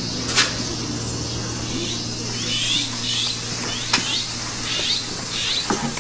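Birds chirping in short repeated calls, about two a second, with a few sharp clicks among them. Under them a low held tone left over from the music ends about five seconds in.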